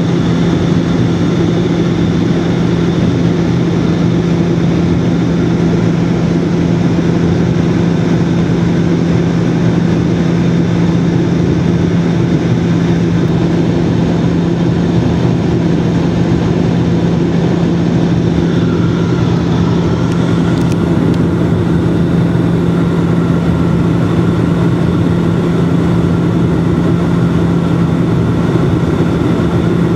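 Bombardier Dash-8 turboprop engines and propellers droning steadily, with a strong low propeller hum over a rushing rumble. A faint higher whine joins about two-thirds of the way through.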